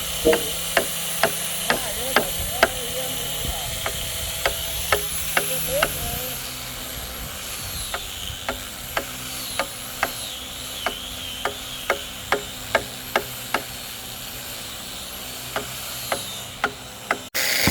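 Repeated knocks of a hand tool striking wood, about two a second, slackening for a moment near the middle and again near the end. A low steady hum lies under the first third.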